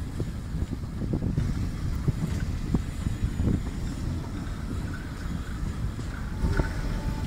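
Vintage railway carriages and wagons rolling slowly past: a low rumble with a few wheel knocks, and wind buffeting the microphone.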